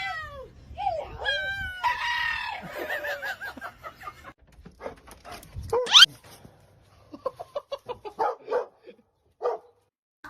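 An animal calling: pitched, wavering cries in the first few seconds, a sharp rising squeal about six seconds in, then a string of short calls near the end.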